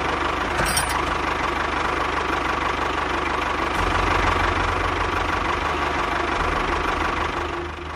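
An engine running steadily with a rapid knocking rumble, the low rumble growing stronger about halfway through.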